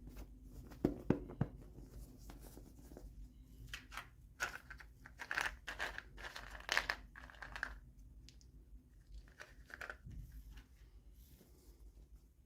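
Toy packaging being torn open and crinkled by hand, in irregular bursts after a few soft knocks about a second in.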